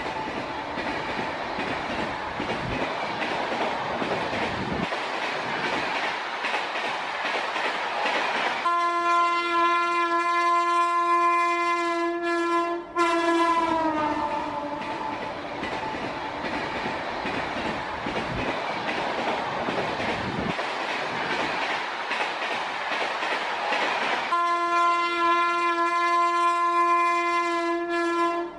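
Indian Railways passenger train passing close by: a steady rumble and clatter of coach wheels on the rails. A long horn blast sounds about nine seconds in for about four seconds, its pitch dropping as it ends, and another long blast starts near the end.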